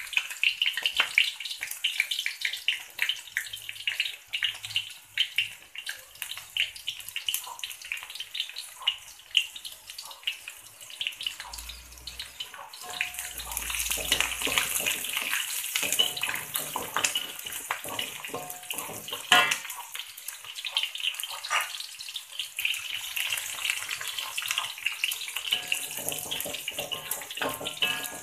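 Oil sizzling and crackling in a metal wok as sliced shallots, garlic and ginger fry and are stirred with a wooden spatula. The hiss grows louder about halfway through.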